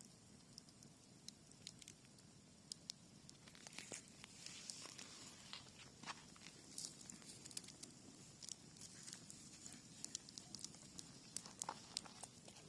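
Faint crackling of a cherry-wood campfire: scattered small pops and snaps, sparse at first, then busier, with a soft hiss from about four seconds in.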